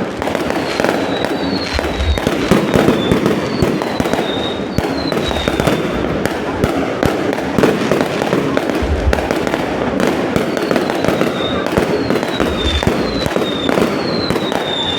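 Many fireworks going off at once: a continuous dense crackle of bangs with deeper thuds every few seconds, and short high whistles falling in pitch recurring through it.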